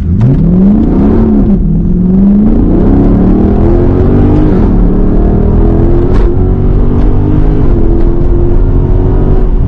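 Dodge 392 Scat Pack's 6.4-litre HEMI V8 under full-throttle acceleration from a launch, heard from inside the cabin. The engine note rises steadily and drops sharply at three upshifts, about a second in, midway and near the end, then climbs again after each one.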